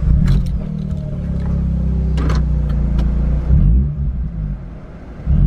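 Mazda RX-8's two-rotor 13B rotary engine running through an aftermarket 5ZIGEN Pro Racer ZZ muffler: revved up and held at raised revs, dropping back to a quieter idle about four seconds in, then blipped again at the very end. A few sharp clicks sound over it.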